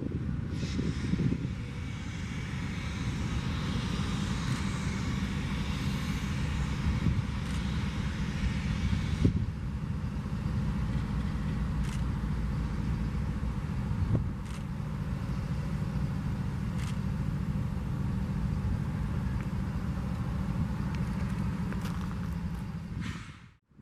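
Diesel freight train running, its locomotive engines giving a steady low rumble with a few sharp clicks. The sound cuts off abruptly just before the end.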